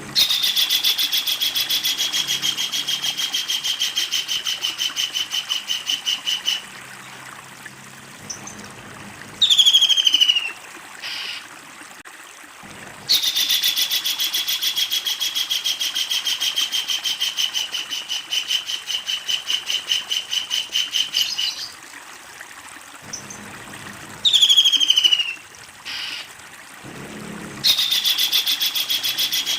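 Kingfisher calling: long, fast rattling trills of several seconds each, three in all, each starting a little higher then holding steady. Between them come two short, sharply falling calls.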